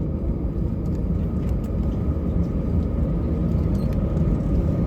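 Steady low rumble of airliner cabin noise inside an Airbus A320, with a faint steady whine above it.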